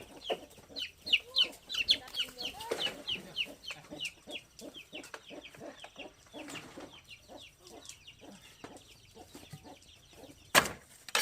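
Chickens calling in a quick run of short, high, falling notes, about three a second, thinning out in the second half. Two sharp knocks sound near the end.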